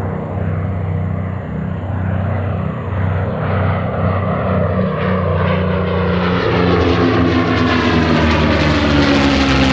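Propeller-driven piston-engined warplane flying past, its engine drone growing louder over the last few seconds as its pitch slides down.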